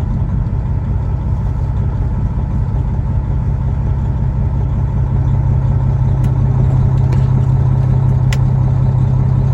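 Semi-truck's diesel engine running steadily, a low drone that grows slightly louder about halfway through.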